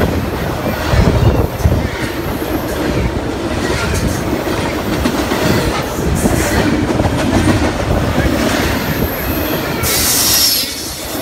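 Norfolk Southern double-stack intermodal freight train rolling past at close range: a steady rumble and clatter of the container well cars' wheels on the rails, with a brief high hiss near the end.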